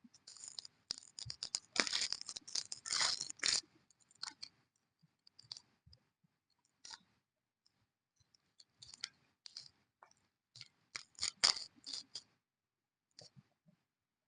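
Irregular clicks and scrapes, a dense run in the first three or so seconds, then scattered ones with a louder cluster near the end.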